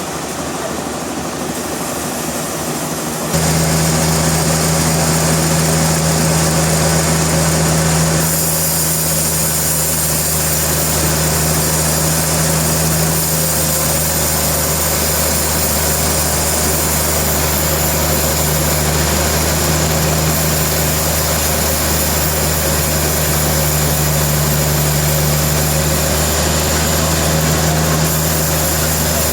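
Sawmill machinery running steadily with a constant low engine hum. It gets louder suddenly about three seconds in.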